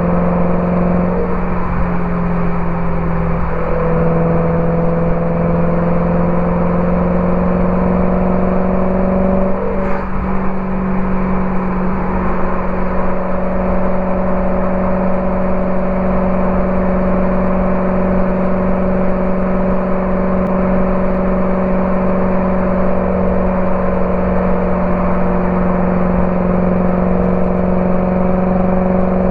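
BMW E92 M3's V8 through a Borla ATAK exhaust, driving at a fairly steady engine speed. The note breaks and dips about a second in and again about ten seconds in, as with gear changes or lifts off the throttle, then holds a steady drone.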